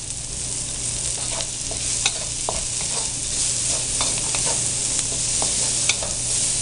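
Chopped onion and garlic sizzling in hot oil in a wok. From about a second in, a wooden spatula scrapes and stirs them, with short scraping strokes over the steady hiss.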